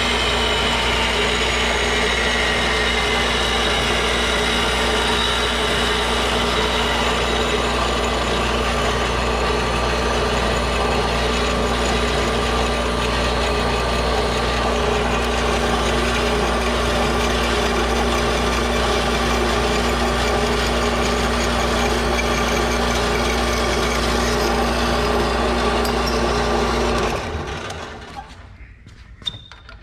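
Metal-cutting bandsaw running steadily with a constant hum and whine as its blade cuts through a metal strap, then shutting off near the end.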